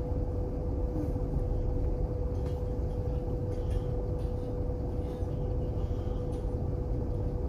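Ontario Northland train running: a steady low rumble with a constant hum and a few faint clicks.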